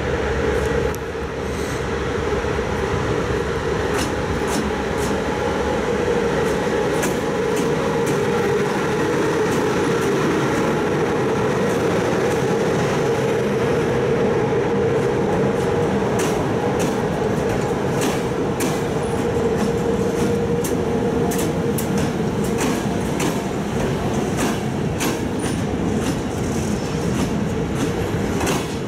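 Passenger train behind an electric locomotive running past along the platform, the coaches rumbling by close at hand with a steady hum. The wheels click over rail joints, more and more often through the second half.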